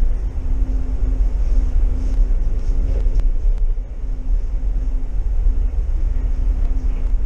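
DD VIRM double-decker Intercity train running along the line: a steady low rumble with a constant hum on top, which drops out briefly a few times, and a few faint ticks about three seconds in.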